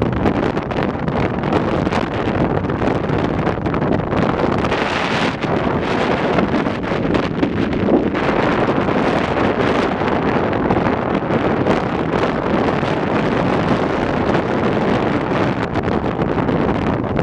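Gale-force wind blowing hard and gusting across the microphone, mixed with the rush of storm waves on the lake.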